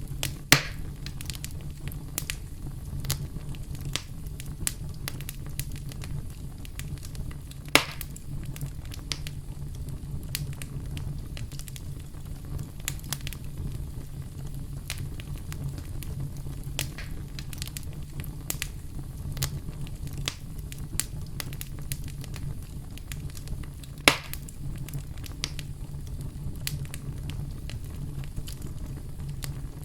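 Campfire crackling steadily over a low rumble, with three loud pops: one near the start, one about eight seconds in and one about twenty-four seconds in.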